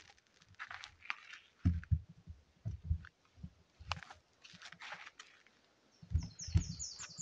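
Footsteps crunching while walking, with clusters of low thumps, and near the end a bird's rapid, high-pitched trill of about ten quick notes.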